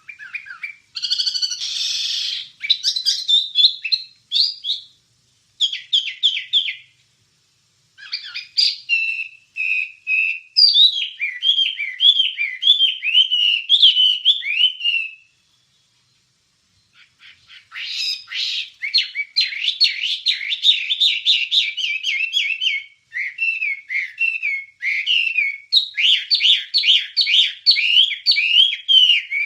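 Wambie songbird singing: fast bursts of chattering, whistled and trilled notes in phrases, with short pauses between them. The longest pause is about halfway through, and then a long run of quick repeated notes follows.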